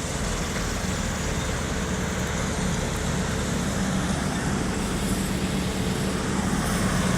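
An engine running steadily under a continuous hiss of wind and rain.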